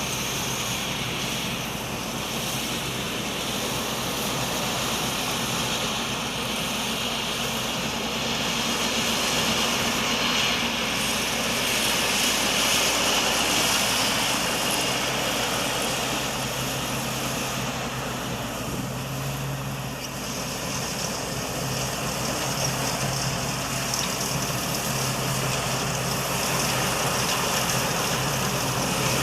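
Combine harvester's 6M61 diesel engine running steadily while harvesting rice, with the whir and rattle of the threshing machinery over a low engine hum.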